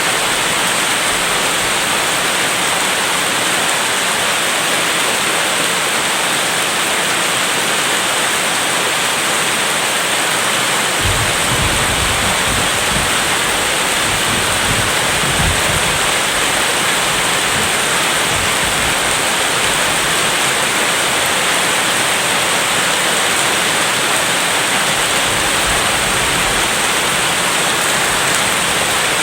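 Steady heavy rain hissing. About eleven seconds in a low rumble of distant thunder rolls for several seconds, and a fainter rumble comes near the end.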